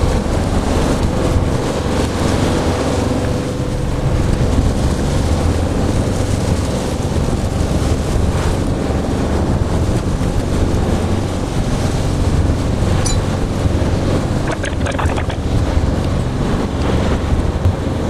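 Steady rushing road noise inside a car's cabin as it drives on a rain-soaked road, tyres hissing through water.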